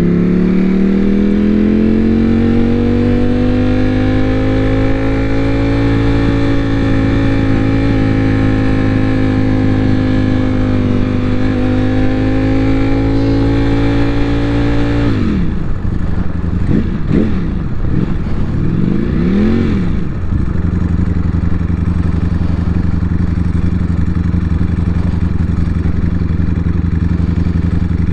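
Ducati Panigale V4 sportbike engine heard from the rider's seat: it pulls up in pitch and holds a steady cruise for about fifteen seconds. Then the throttle snaps shut, the engine note swings up and down a few times as the revs rise and fall, and it settles to a steady low idle for the last eight seconds.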